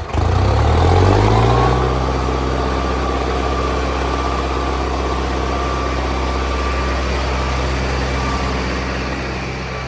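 Tractor diesel engine revving up over the first second or so, then held steady at high revs, easing off slightly near the end.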